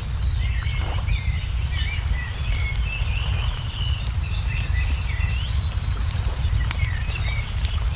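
Crackling wood fire with scattered sharp pops, and many small birds chirping and twittering throughout, over a loud, steady low rumble.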